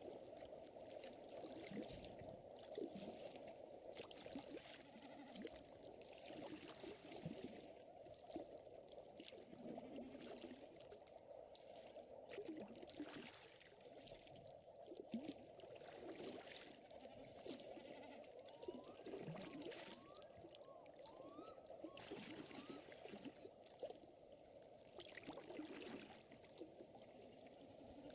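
Faint, steady water trickling and lapping, with soft irregular crackles and pops from a wood fire. A few short, faint rising chirps come about two-thirds of the way through.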